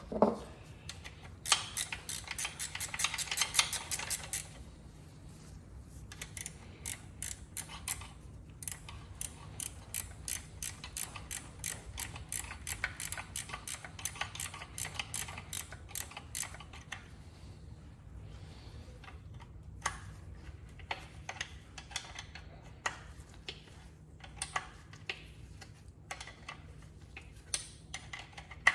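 Hand socket ratchet clicking in runs as connecting-rod cap nuts are run down: a fast burst of clicks, then a long steady run at about four clicks a second, thinning to scattered clicks near the end.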